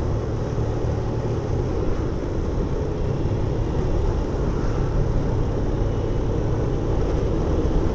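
Suzuki Intruder 125 motorcycle's single-cylinder engine running steadily while riding in traffic, a low, even rumble.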